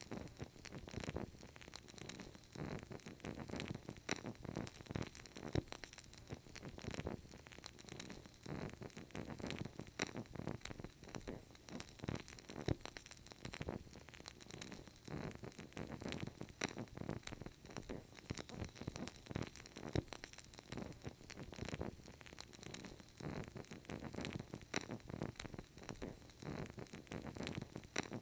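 Burning candle crackling steadily: a dense, unbroken run of small quick crackles and pops.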